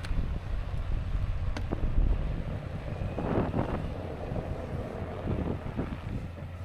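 Strong wind buffeting the microphone: a constant heavy low rumble that swells and eases in gusts, with a stronger gust about three and a half seconds in.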